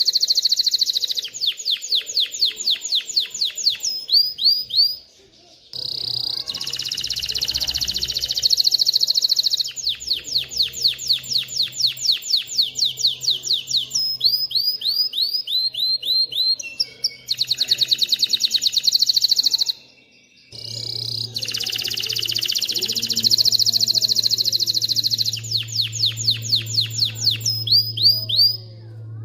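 Male domestic canary singing a long song of fast rolling trills, each phrase a run of rapidly repeated high notes, stopping briefly about five seconds in and again about twenty seconds in.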